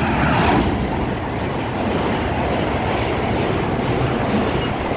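Two coupled Class 730 electric multiple units passing through the station at speed: a steady, loud rush of wheel and air noise.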